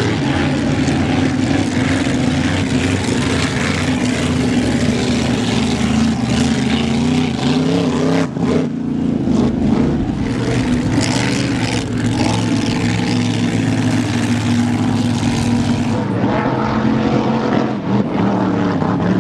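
An engine running steadily at a constant speed, a loud, even drone.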